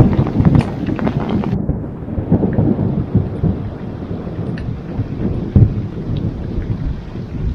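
Heavy tropical rain pouring down, with a deep rumble underneath and scattered sharp patters. About one and a half seconds in the sound cuts abruptly to a quieter, duller rain.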